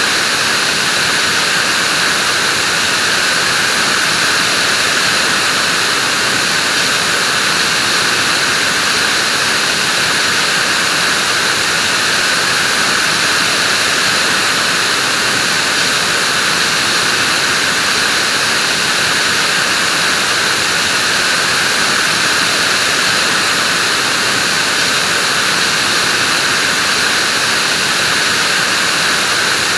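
Vacuum cleaner running steadily: an even, unchanging rush of air with a hiss that stays the same level throughout.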